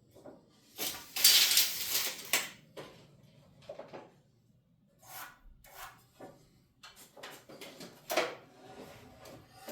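2x4 studs being handled: a scraping slide of wood on wood about a second in, then scattered knocks and clunks, the sharpest near the end.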